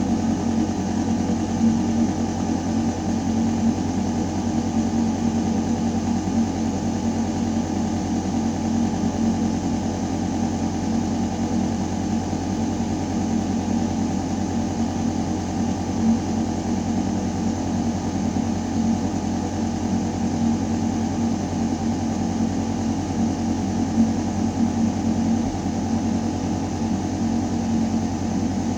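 Building ventilation system running in a shaft: a steady deep mechanical hum with a few constant tones over an even rush of air through metal ducting.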